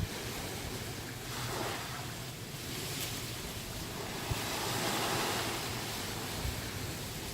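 Waves breaking and washing up the shore, swelling and ebbing, with some wind buffeting the microphone.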